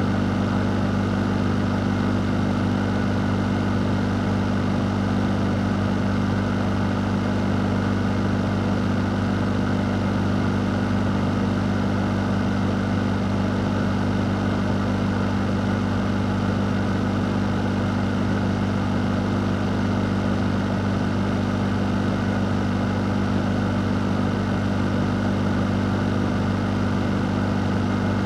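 Electric fan running steadily: a constant low hum under an even rush of air, with no change in speed.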